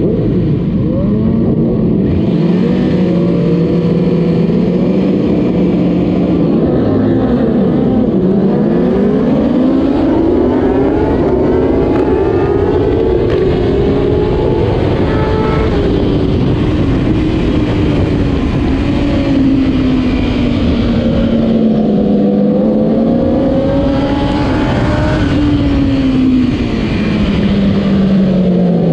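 2008 Kawasaki ZX-10R inline-four superbike engine at racing speed, revving up and down repeatedly as it accelerates and brakes through the gears. The note holds steady for the first few seconds, then dips and climbs again.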